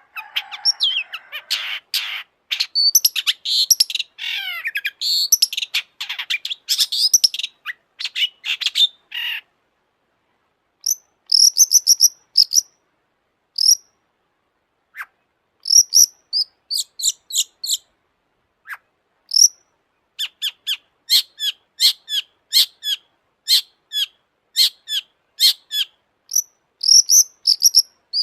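Long-tailed shrike (cendet) singing: a fast, varied warbling phrase for about the first nine seconds, then, after a short pause, runs of sharp, high repeated notes in quick clusters.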